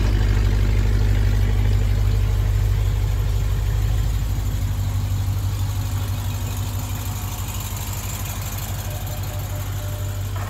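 Chrysler 300 SRT's HEMI V8 idling steadily, its low exhaust note growing somewhat quieter about four seconds in as the microphone moves from the exhaust toward the front of the car.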